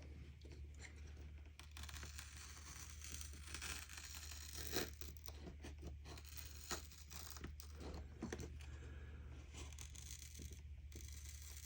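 Razor blade scraping old polarizing film and crystallized adhesive off the glass of an LCD panel, in short, irregular, scratchy strokes, over a steady low hum. The adhesive has turned to acetic acid crystals under the film, and the blade needs a fair amount of pressure to lift it.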